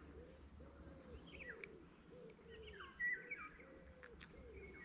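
Faint birds calling: a steady run of low, arching coos, with a few higher, falling chirps about one and a half and three seconds in.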